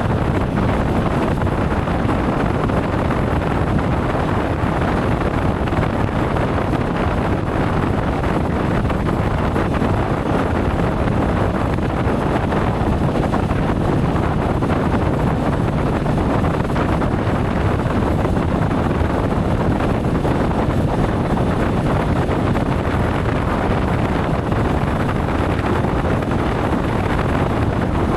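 Steady wind rushing over the microphone of a moving motorcycle, an even, unbroken noise with no change in pitch.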